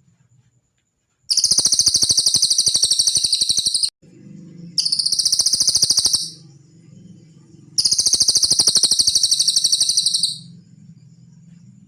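A cililin songbird singing three long, very fast trills of rapid high notes, each lasting about one and a half to two and a half seconds, with short pauses between them.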